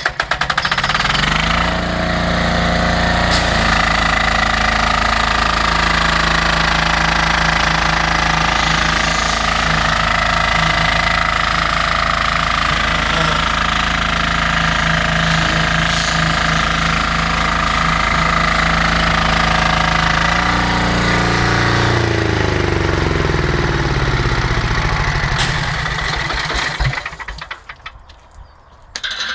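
10 hp Loncin diesel engine of a belt-driven pressure washer catching and coming up to speed within a few seconds. It then runs steadily with a knocking diesel clatter for about twenty seconds. It is then shut down, its note falling as it slows and dies away near the end.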